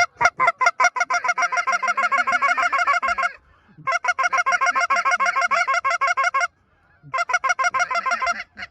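Goose honking in fast, evenly spaced runs of calls, about ten a second, breaking off abruptly about three seconds in and again about six and a half seconds in before a last run.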